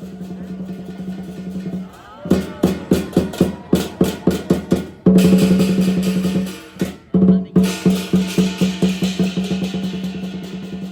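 Lion dance drumming. A steady roll gives way about two seconds in to separate beats about four a second, then a loud dense passage. After a brief break near seven seconds the drumming resumes as fast beats.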